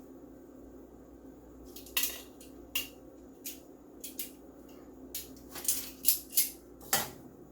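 A metal spoon clinking and scraping against a cooking pot and dishes: a dozen or so sharp clinks, starting about two seconds in and bunching together near the end, over a steady low hum.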